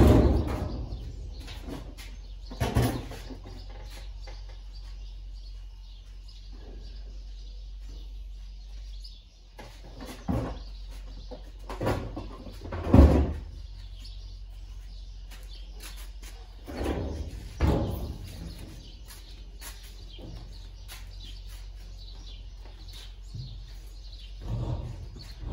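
Scattered knocks and clunks, about eight of them spread irregularly, the loudest about halfway through, from hard parts being handled and set down during a washing machine repair. A steady low hum runs beneath them.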